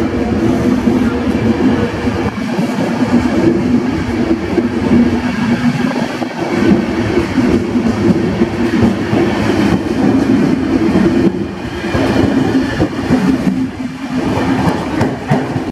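A passenger train's coaches roll past close by, the wheels running over the rails with a steady low hum.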